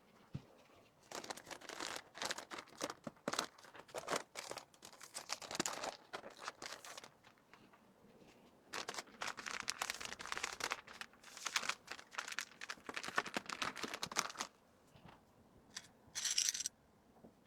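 Plastic packaging crinkling and crackling in two long stretches as packed items, eye masks in plastic wrap, are handled, with a short hissing rustle near the end.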